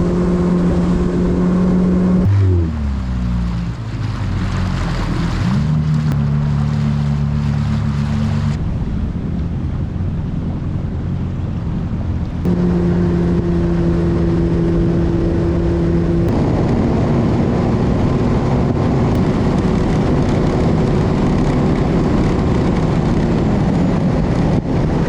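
Jet ski engine running at cruising speed, a steady drone over water and wind rush. About two seconds in the engine note drops as the throttle eases off, then climbs back a few seconds later. The sound changes abruptly several times, as if cut between stretches of riding.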